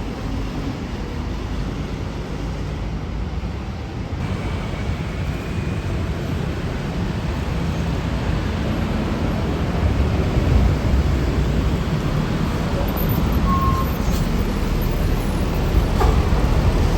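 Roadside traffic: the engines and tyres of passing vehicles make a steady rumble that grows louder from about halfway through as traffic comes closer.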